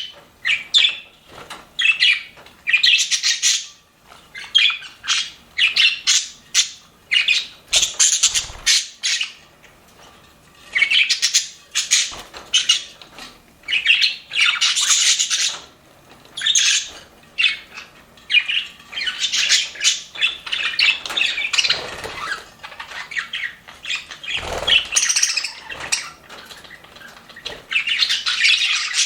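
A flock of budgerigars chirping, squawking and warbling in quick overlapping bursts, with a couple of brief low thumps.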